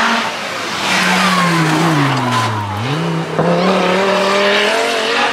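Group B rally car engine running hard. Its pitch falls for about two seconds, then rises sharply about halfway through and holds fairly steady.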